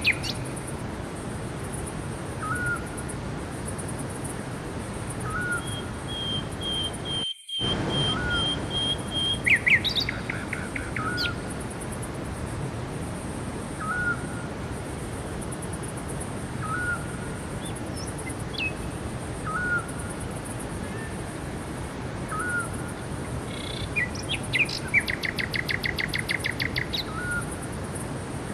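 Several forest birds singing over a steady rushing background. One bird repeats a short note about every three seconds, another holds a long steady high note for a few seconds, and rapid trills come about ten seconds in and again near the end. The sound cuts out for a split second about seven seconds in.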